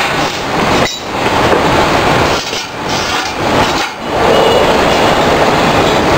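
A metalworking machine running with a loud, steady mechanical rattle and clatter that dips briefly three times.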